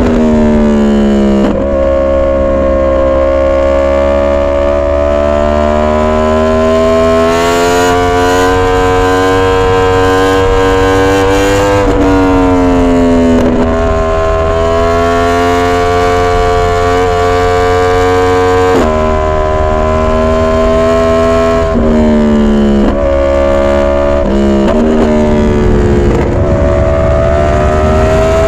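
2022 Yamaha R1's 998 cc crossplane inline-four engine running loud and continuous under way. Its note holds or climbs slowly for stretches of several seconds, broken by sudden drops in pitch about five times, like gear changes.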